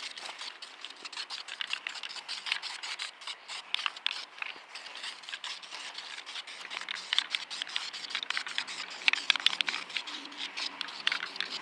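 Dense, irregular scratching and crinkling: hand work rubbing or scraping on a surface, with many short scratchy ticks.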